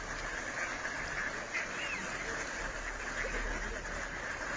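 A few faint, scattered waterfowl calls over steady background noise.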